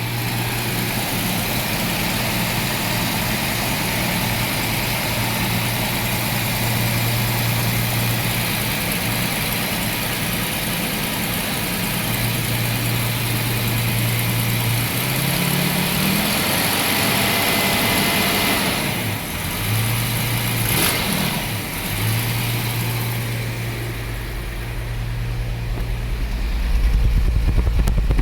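Jaguar XJ-S 5.3-litre V12 HE engine idling at the exhaust, running unevenly with a misfire that sits mostly on one bank (B-bank). The note rises briefly about halfway through, and a deeper rumble grows louder near the end.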